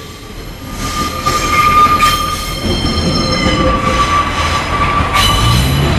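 Class 144 Pacer diesel unit rolling slowly over a level crossing, its wheels squealing in a steady high tone over a rumble that grows as it draws close.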